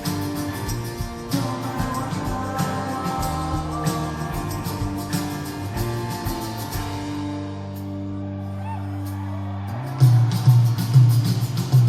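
Live rock band playing through a concert PA, with drums and guitars. About two-thirds of the way in, the drums drop out under a held chord, then loud, heavy low hits come in near the end.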